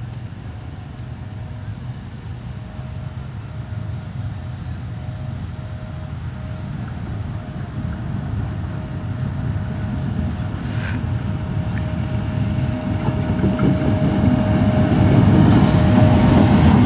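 Pakistan Railways GEU40 diesel-electric locomotive approaching on a train, its engine and rumble on the rails growing steadily louder until it passes close by near the end, with a steady humming tone over the rumble until just before it passes.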